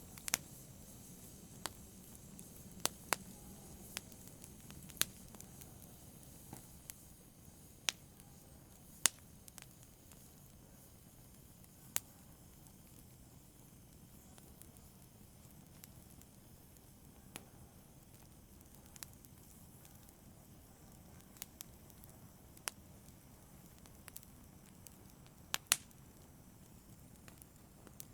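Wood or charcoal fire in a brazier crackling softly: a low steady hiss with irregular sharp pops and snaps, more frequent in the first half and sparser toward the end.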